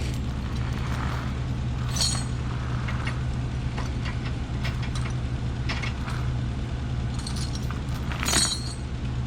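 A car's engine running steadily, with scattered light clinks and clicks on top, the loudest about eight seconds in.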